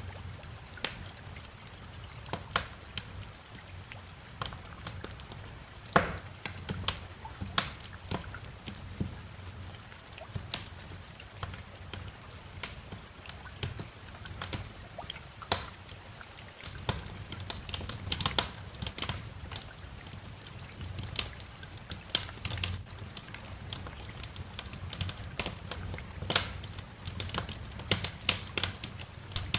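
Wood fire crackling in a fireplace: irregular sharp pops and snaps, coming more thickly in the second half, over a steady low rumble.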